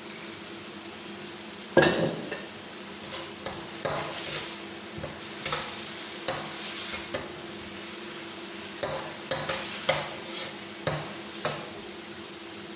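Metal spatula stirring and scraping in a cooking pan of chicken just dressed with soy sauce: a sharp clank about two seconds in, then a run of clinks and scrapes, a short lull, and more clinks toward the end, over a faint sizzle.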